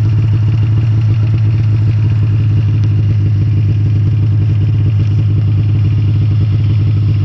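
Snowmobile engine running steadily and loud, at an even, unchanging pitch.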